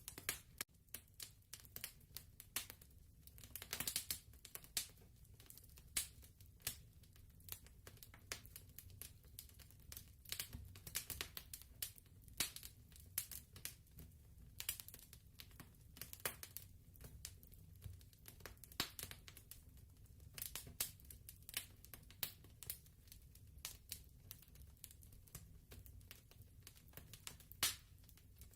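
Fireplace crackling: irregular snaps and pops over a soft, steady low rumble.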